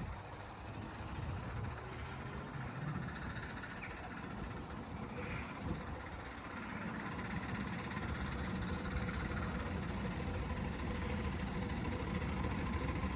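Steady mechanical rumble of a miniature railway train running, with a faint steady hum above it.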